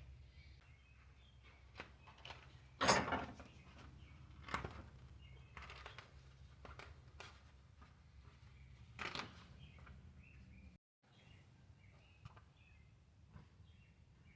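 Scattered knocks and clicks from handling a bicycle wheel and tire, the loudest about three seconds in, over a steady low hum with faint birds chirping in the background.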